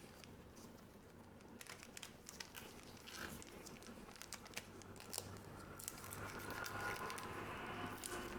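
Quiet crinkling and crackling of a trading-card booster pack's wrapper being handled and torn open, starting about a second and a half in and getting busier and louder toward the end.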